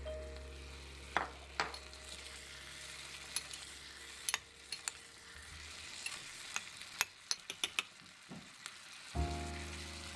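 Chopped vegetables sizzling as they fry in a tiny glazed clay pot, while a small metal spoon stirs them and clicks sharply against the pot many times.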